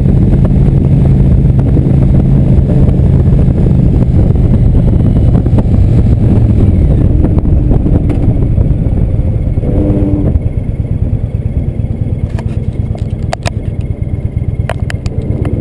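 Indian Chief Vintage V-twin motorcycle running under way with a steady low engine note. The note falls away in the second half and the level drops about two-thirds of the way through as the bike slows, with a few sharp ticks near the end.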